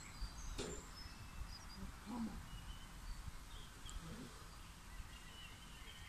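Faint birds chirping in short calls over a low background rumble, with a soft click about half a second in.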